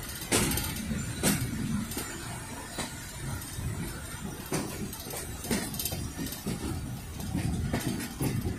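A passenger train coach in motion: a steady low rumble with irregular knocks about once a second, heard from the coach's open doorway.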